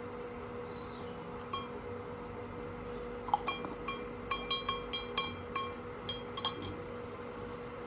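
A small glass or ceramic object clinking about a dozen times in quick, irregular succession, each clink ringing briefly at the same pitch, over a steady low hum.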